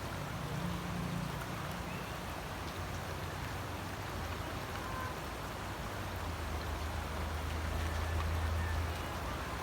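Steady rain falling, an even hiss. A low rumble swells underneath from about six to nine seconds in.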